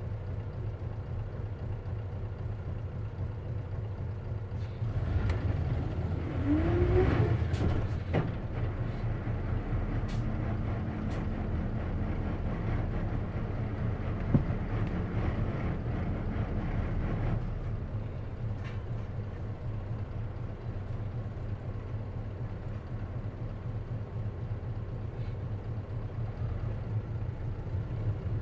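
Isuzu KC-LV380N city bus with manual transmission, heard from on board: its diesel engine runs steadily, grows louder about five seconds in with a short rising whine, holds a steady drone, then eases off about seventeen seconds in. This bus is known for an abnormal noise, which the uploader suspects can arise in manual-transmission buses.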